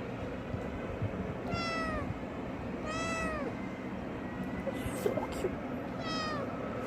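A cat meowing three times, short high calls that bend down in pitch at the end, over a steady low background hum.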